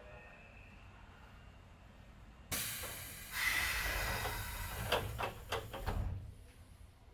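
Doors of a Keisei 3400 series train closing at a station stop: a sudden rush of air hiss, then several clunks as the door panels shut, before the hiss stops.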